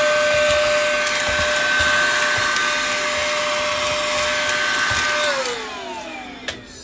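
Small vacuum cleaner running with a steady high whine while clearing broken back-glass shards from a phone. About five seconds in it is switched off and its pitch falls as the motor winds down.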